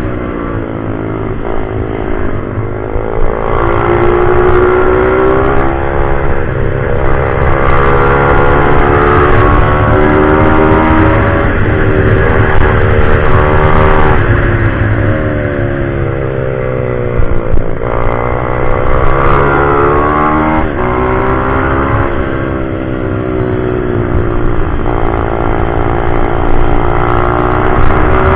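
Pit bike's single-cylinder engine being ridden hard, revving up and easing off again and again, its pitch climbing and then dropping every few seconds.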